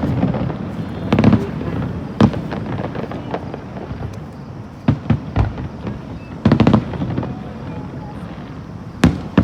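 Aerial fireworks bursting: single sharp bangs at uneven intervals, with a quick run of several reports about six and a half seconds in.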